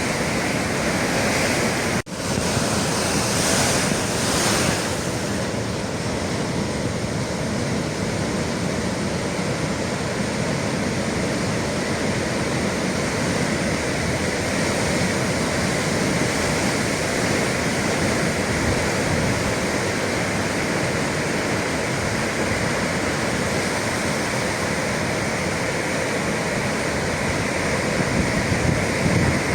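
Atlantic sea waves surging and breaking against the shore, a continuous rushing wash with some wind. The sound drops out for an instant about two seconds in.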